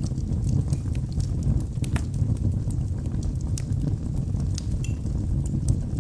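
Logs burning in a fireplace: a steady low rumble of flame with frequent small crackles and a few sharper pops.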